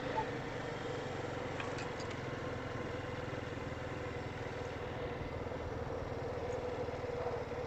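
ATV engine running steadily at low revs, an even hum with no change in pitch.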